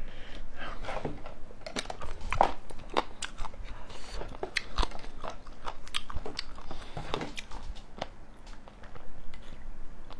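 Close-miked chewing and biting of food, with many irregular wet, crunchy clicks of the mouth and teeth.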